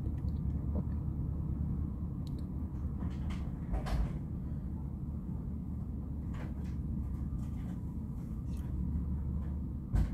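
Freight cars of a Norfolk Southern manifest train rolling past: a steady low rumble of steel wheels on rail, with scattered clanks and knocks, the loudest about four seconds in and just before the end.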